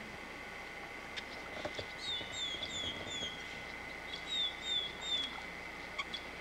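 A songbird singing two short phrases of repeated falling whistled notes, four notes then three, with a short gap between the phrases. A steady high-pitched hum and a few light clicks sit underneath.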